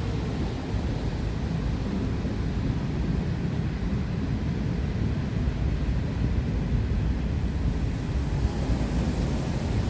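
Steady low rumble with irregular wind buffeting on the microphone, without any distinct rhythm or tone.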